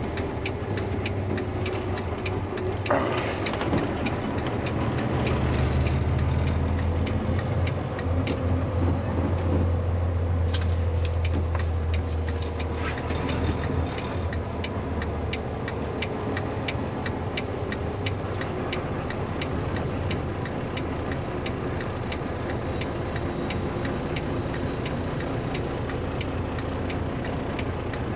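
Tractor-trailer's diesel engine running, with a low rumble that swells from about five to fourteen seconds in, and a steady, quick ticking over it.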